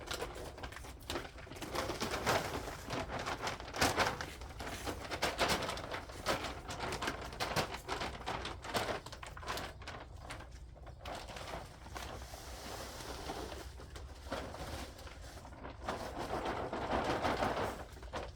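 Livestock-manure compost being shaken out of a sack and scattered over the soil by hand: an irregular run of rustling and scraping from the bag and the falling compost.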